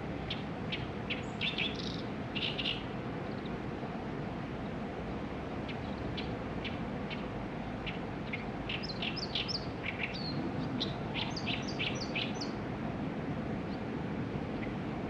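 Small songbirds chirping in quick short high notes, a first flurry near the start and a denser run of chirps past the middle, over a steady low background hiss.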